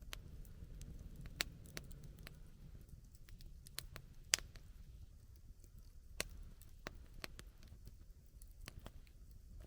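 Wood campfire crackling: irregular sharp pops and snaps over a low steady rumble, with one louder pop about four seconds in.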